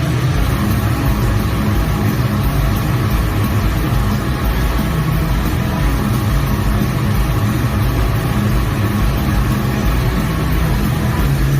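Motor vehicle engine running with a steady low drone, holding an even level without clear revving.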